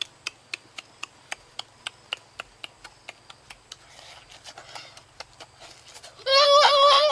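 Wet smacking clicks of chewing and lip-smacking while eating roasted chicken wing, sharp and regular at about four a second. A little after six seconds a loud, long, wavering high-pitched cry begins and drowns them out.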